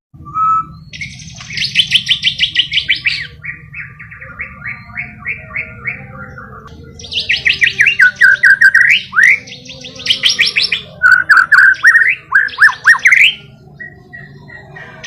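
White-rumped shama (murai batu) singing: fast trills of rapidly repeated notes, many of them sweeping downward, with the loudest phrases about seven and eleven seconds in. A steady low hum runs underneath.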